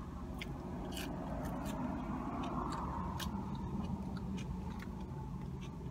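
Close-miked chewing of fried fast food, with many small, sharp mouth clicks and smacks.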